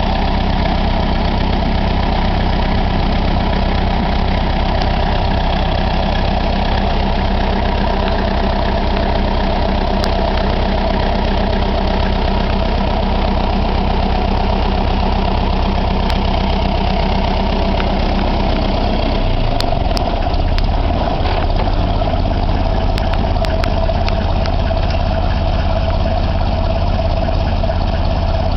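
Ferguson TEF-20 tractor's four-cylinder diesel engine running steadily at low speed. Its low note shifts about two-thirds of the way through.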